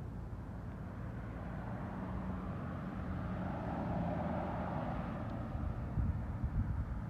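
Roadside traffic and wind noise: a steady rush that swells around the middle, then low, gusty wind buffeting on the microphone near the end.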